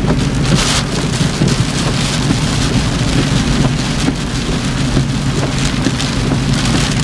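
Heavy rain pelting a car's roof and windshield in a severe thunderstorm, a dense steady patter of drops over a constant low rumble from the moving car.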